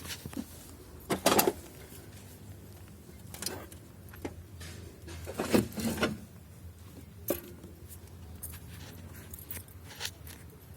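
Scattered metallic clinks and rattles of scrap-metal parts being handled, in a few separate clatters, the loudest just after a second in and around five and a half seconds in.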